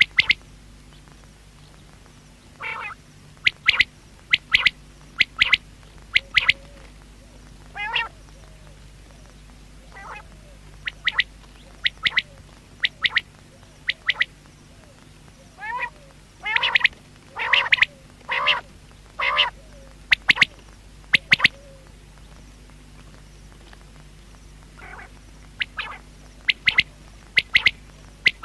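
Male common quail calling: sharp, quick notes in repeated groups of two or three, with a few softer, lower wavering calls between, over a steady low hum.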